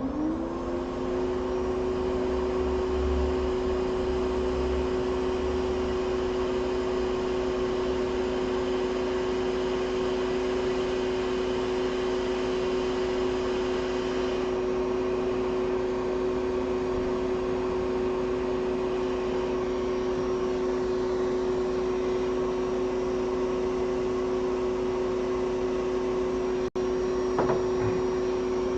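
Hot air rework station's blower fan starting up and running steadily while heating a capacitor on an iPhone logic board, a steady whirring hum whose pitch rises in the first second and then holds.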